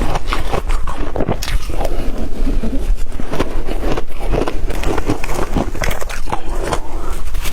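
Shaved ice dipped in water being chewed close to the microphone: a loud, dense, unbroken run of wet crunches and crackles.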